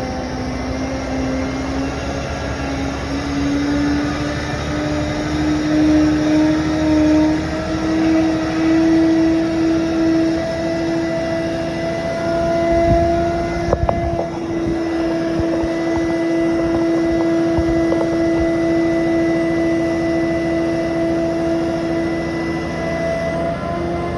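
Fire truck engine running with a steady hum that climbs slowly in pitch over the first ten seconds or so, then holds at the higher speed, with a thin steady whine above it. A couple of short knocks come about halfway through.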